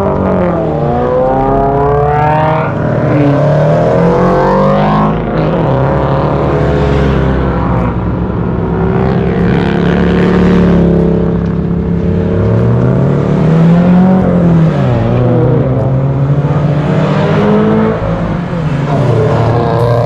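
Several car engines, Honda Civic Type Rs among them, running at low speed as the cars pull out and manoeuvre, their engine notes rising and falling and overlapping.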